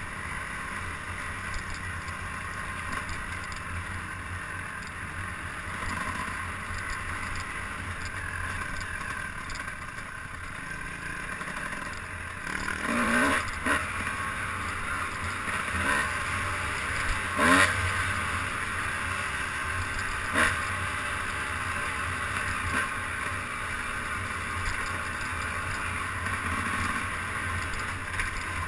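A vehicle running steadily while under way, with a constant engine and rushing noise and a few sharp knocks or bumps about halfway through.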